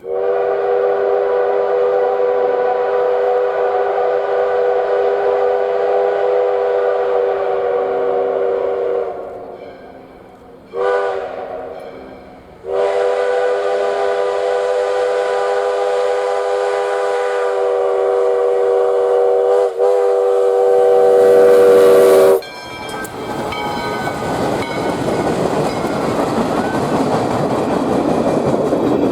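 Steam whistle of US Sugar locomotive #148 blowing a steady chord: a long blast, a short one about 11 seconds in, then another long blast. It cuts off suddenly, and the train passing close by takes over as a loud rushing noise.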